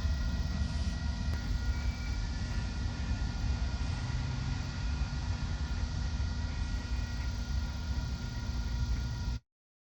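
Union Pacific freight train rolling past: a heavy, steady low rumble with several thin, steady high tones over it. The sound cuts off suddenly near the end.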